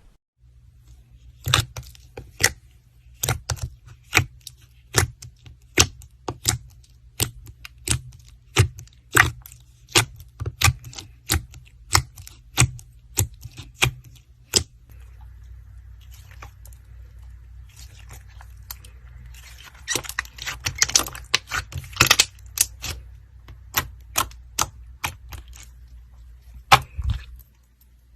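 Slime being pressed and worked, giving sharp crackling snaps one after another, a little irregular, with a denser run of crackles about two-thirds of the way through.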